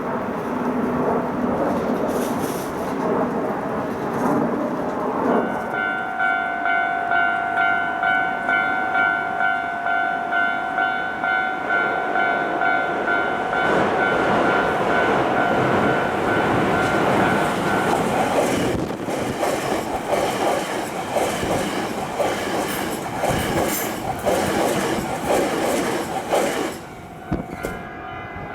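Hankyu Kyoto Line electric train passing a Japanese level crossing. About five seconds in, the crossing's warning bell starts up, ringing in an even, rapid repeating ding; a train draws near and passes from about nineteen seconds in, wheels clattering over the rail joints, and its noise drops away near the end.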